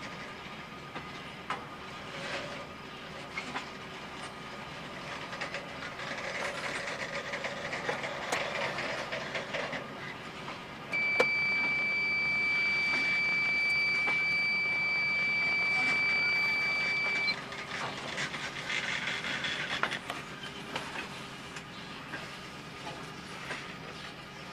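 Freight train cars rolling past with a steady rumble and scattered wheel clicks over the rail joints. About eleven seconds in, a loud, steady high-pitched squeal starts abruptly, holds for about six seconds and cuts off.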